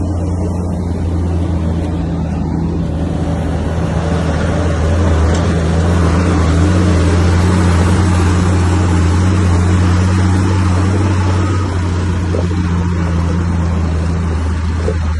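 Komatsu bulldozer's diesel engine running with a steady low drone that grows louder a few seconds in and eases off again near the end.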